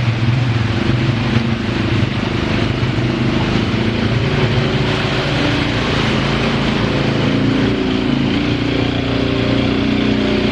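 ATV engine running under varying throttle, its pitch stepping up and down, over a steady rushing noise.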